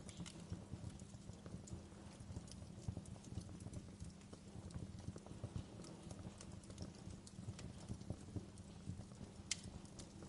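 Wood fire crackling in a fireplace: a steady low rumble under frequent small pops and snaps, with one louder pop near the end.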